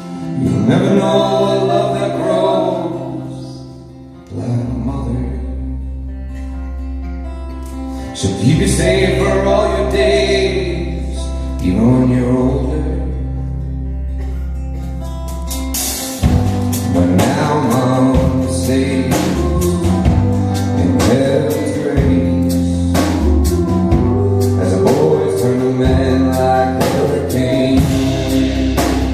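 Live band playing a song with a singer's voice carrying the melody. About halfway through, the full band with drums comes in and the sound gets louder and denser.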